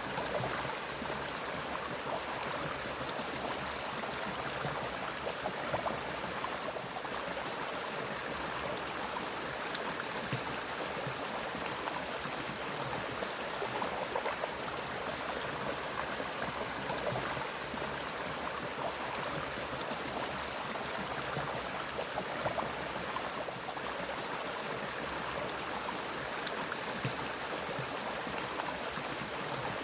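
Mountain stream water flowing steadily, with a steady thin high-pitched tone above it.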